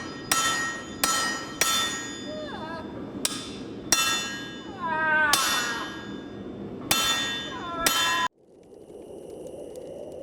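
A series of about nine sharp metal-on-metal blows, each ringing with the same steady tones, as on an anvil during forging. Between some of the blows come high, falling pitched cries. All of it cuts off suddenly after about eight seconds, leaving a quieter steady background.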